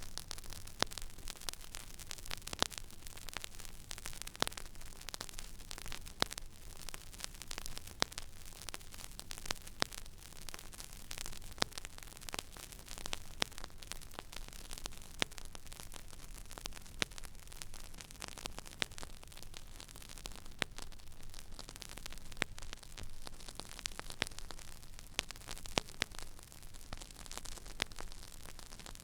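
Stylus tracking the empty, silent groove of a vinyl record: steady surface hiss with frequent crackles and pops, over a low rumble.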